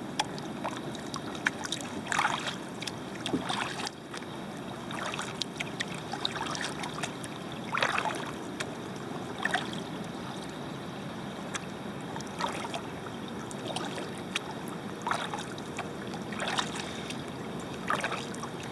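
Kayak paddle strokes: a blade dipping and splashing in the water every second or two over the steady wash of water along the hull.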